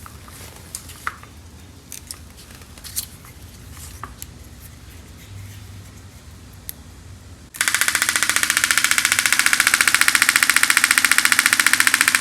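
A few faint clicks, then about two-thirds of the way in a Type 4 VW flat-four is abruptly cranked over by its starter motor, a loud, rapidly pulsing sound that keeps going without the engine firing. The new carburettor is still dry, with fuel only now being drawn up to it.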